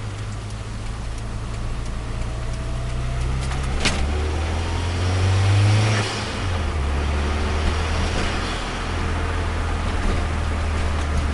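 Turbocharged Nissan Micra engine running. It picks up revs and grows louder, peaking about halfway through, then settles back to a steady lower note. There is a sharp click just before the revs rise.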